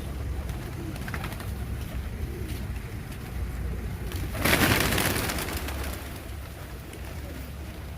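A flock of birds feeding on scattered corn, with soft low cooing calls. About four and a half seconds in, a loud rush of noise lasts a second or so.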